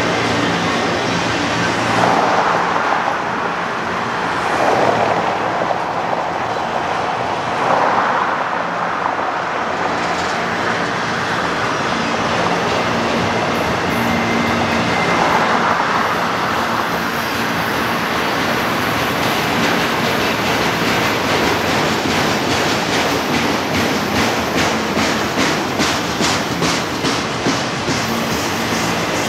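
Freight train of autorack cars rolling past slowly as it slows to a stop: steady rumble and rattle of steel wheels on the rails. Toward the end comes a run of quick, regular clicks from the wheels.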